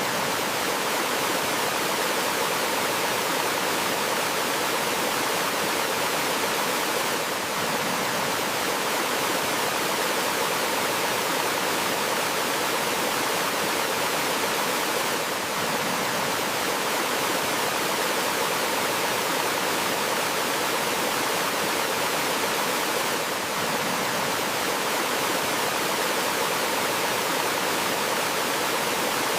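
Gentle forest waterfall: water pouring and rushing in a steady, even hiss with no letup.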